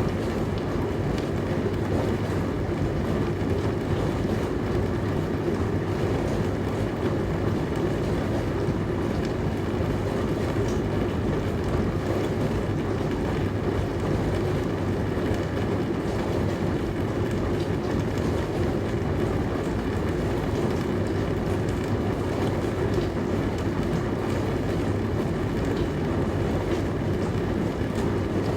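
Dishwasher running: a steady, even rumble with a low hum underneath.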